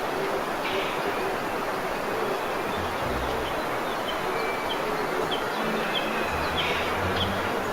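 Natural outdoor ambience: a steady hiss with an animal's short, high chirps repeating about twice a second through the second half.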